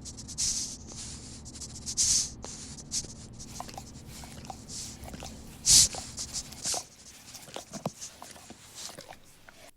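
An animal breathing and sniffing right at the microphone: a run of short noisy breaths with rubbing and scuffing in between, the loudest breath about six seconds in.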